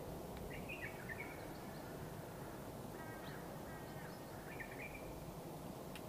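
Birds calling in short chirps every second or two over steady background noise.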